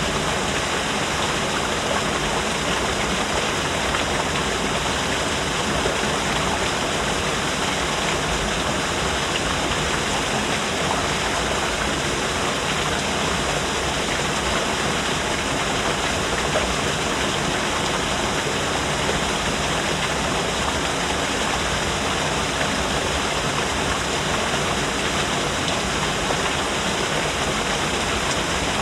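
Small artificial waterfall: water falling and splashing in a steady, even rush.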